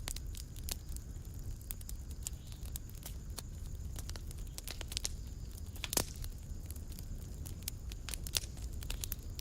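Fire crackling in a fireplace: irregular sharp pops and snaps over a steady low rumble, with one louder pop about six seconds in.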